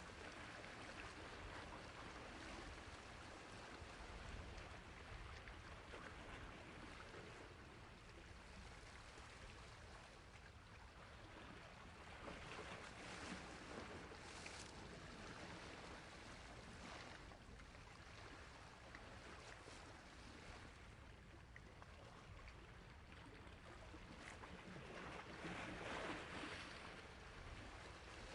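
Soft sea waves washing on a shore, a steady hiss of surf that swells gently about halfway through and more strongly near the end.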